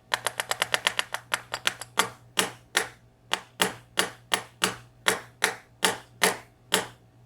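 A run of about twenty sharp metallic taps or clicks on the disassembled VSR dimple lock as a pin is worked out of the right side. They come quickly, about eight a second, for the first two seconds, then slow to an even two or three a second.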